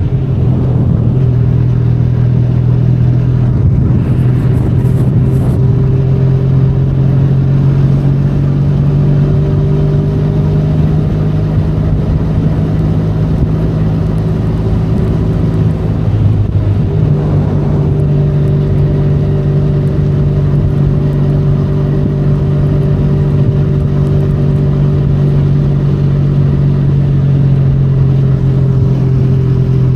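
Benelli Leoncino 500's parallel-twin engine running steadily as the motorcycle rides along. Its note holds level apart from a brief dip about halfway through, then it steadies again.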